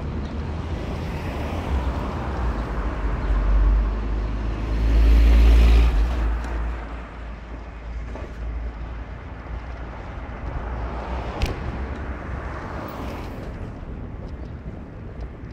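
A car on the move: steady low rumble of engine and road noise that swells to its loudest about five seconds in and then eases off, with a single sharp click a little past the middle.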